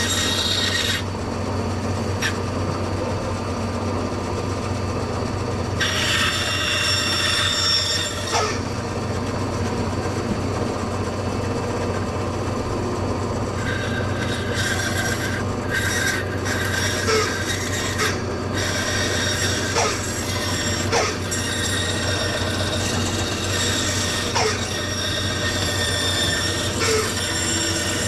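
A woodworking power tool runs with a steady motor hum while it rasps into wood, the scraping rising and falling as the work is fed. It is clearing waste wood from a solid guitar body so the router has less to remove.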